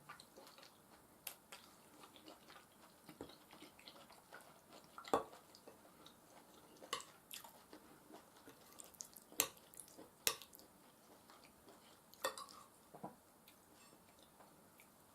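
Close-miked eating sounds of soft food (mashed potatoes and beef stew): scattered wet mouth clicks and smacks of chewing, with a few louder clicks of cutlery on a dish.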